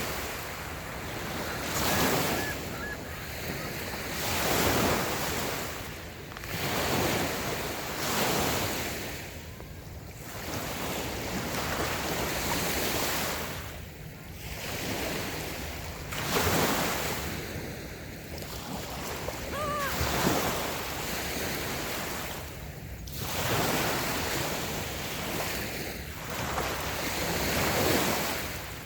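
Small waves breaking and washing up on a sandy beach, the surf swelling and easing every few seconds.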